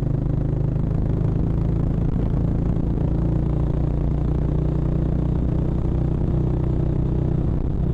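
Harley-Davidson X440's single-cylinder engine running at a steady highway cruising speed, its exhaust note holding an even pitch.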